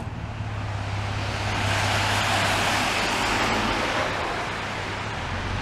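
A car passing on a wet road: tyre hiss swells up, peaks a couple of seconds in and fades away, over a steady low hum.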